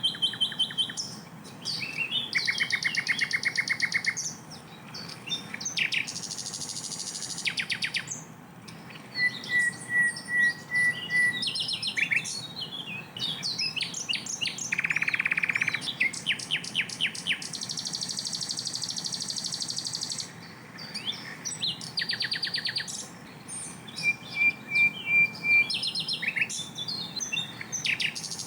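Sikatan londo flycatcher singing a loud, varied song of fast rattling trills, quick series of chips and short high whistles, phrase after phrase with brief gaps: the dense rapid bursts (tembakan) prized in training recordings for songbirds.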